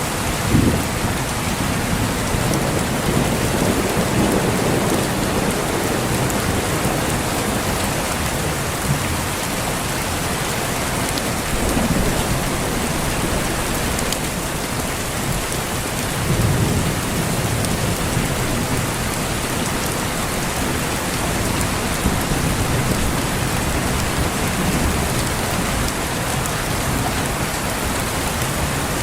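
Steady heavy rain falling, with low rolls of thunder rumbling several times, the strongest about 4 seconds in and again about 16 seconds in.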